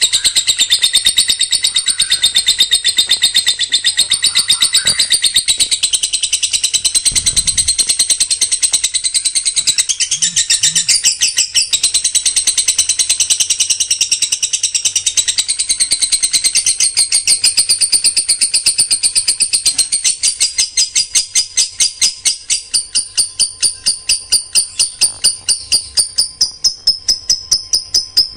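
Songbird singing a long, unbroken run of shrill, rapidly repeated high notes, the close-packed 'tembakan rapat' style of chattering song, at about four notes a second.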